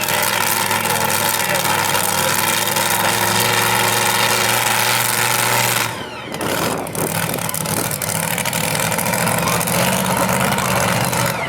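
Competition pulling vehicle's engine running flat out under load in a steady, loud drone, which drops off suddenly about six seconds in to a lower, rougher engine sound.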